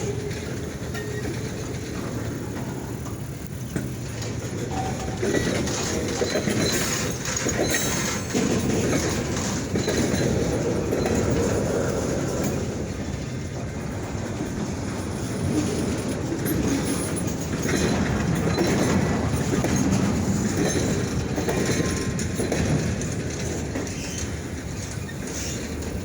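Freight train rolling slowly on the track, its cars rumbling steadily with wheels clacking over the rail joints and an occasional squeal.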